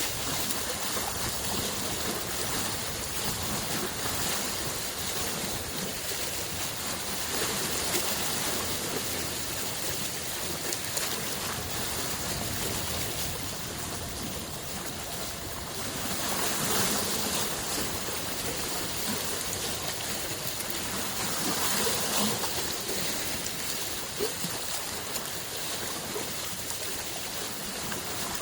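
Lake waves on Lake Biwa, a steady wash of water that swells louder every few seconds, most strongly past the middle and again a few seconds later.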